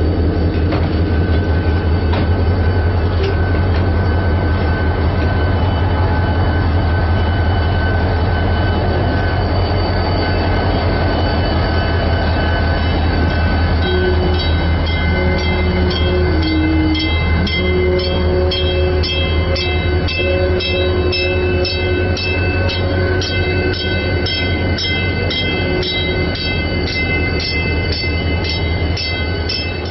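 A slow-moving passenger train of steel coaches rolls past, followed by its diesel locomotive, Chicago & North Western 6847, an EMD SD40-2. A steady, deep engine drone runs throughout. From about halfway, steady tones from the passing locomotive join in, along with regular clicks about twice a second as the wheels cross the rail joints.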